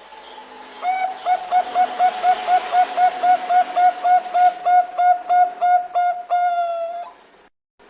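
Zebra dove (perkutut) cooing: a fast, even string of short staccato notes, about four a second, ending in one longer drawn-out note. Steady water-like hiss runs underneath, and the sound cuts off abruptly near the end.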